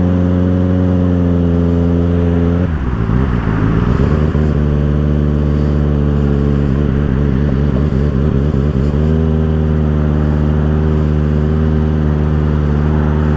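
2024 Kawasaki ZX-6R's inline-four engine running through an M4 aftermarket exhaust. It holds a steady note, then wavers up and down in pitch with throttle changes from about three seconds in, and settles back to a steady note near nine seconds.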